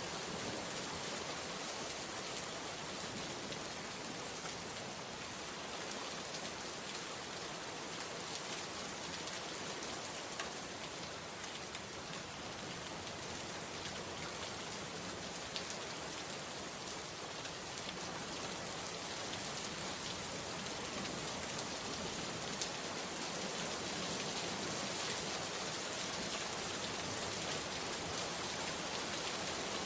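Steady rain falling, an even wash of noise with an occasional single drop ticking out above it.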